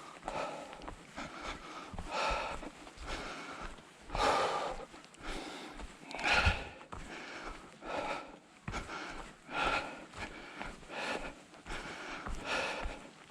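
A person breathing heavily, with a loud breath roughly every one and a half to two seconds.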